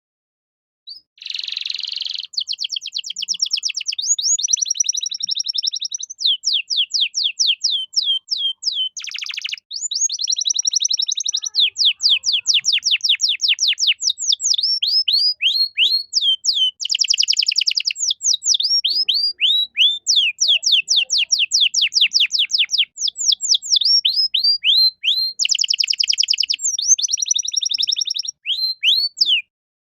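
Male domestic canary singing a long, loud, almost unbroken song. Fast trills and rattling rolls alternate with runs of quick, high, downward-sliding notes.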